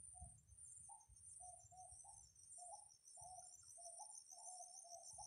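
Faint bird calls: a string of short, low notes, two or three a second, some stepping up in pitch, over a steady, high, pulsing insect buzz from the surrounding bush.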